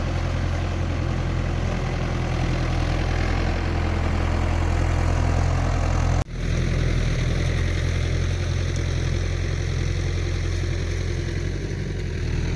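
Tractor's diesel engine running steadily at an even speed; the sound drops out for an instant about halfway through.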